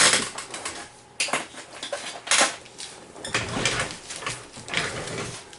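Rummaging and handling noise as scissors are fetched: irregular rustles, clicks and light knocks of objects being picked up and moved, the loudest at the very start and about two and a half seconds in.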